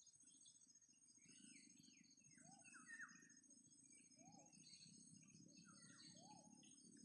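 Birds chirping in short rising and falling notes, one call repeating about every two seconds, over a steady high insect trill, with a faint low rumble underneath.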